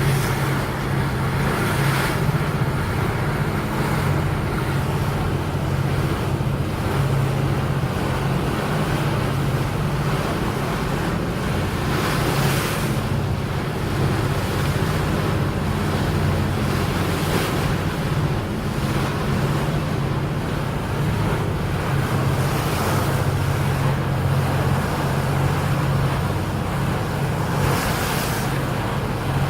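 A boat's engine droning steadily low, with water rushing past the hull and wind buffeting the microphone in gusts every few seconds.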